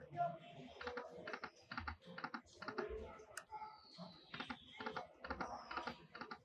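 Lightning Link slot machine sound effects during a spin: a run of soft, quick clicks, with a short falling electronic tone about halfway through.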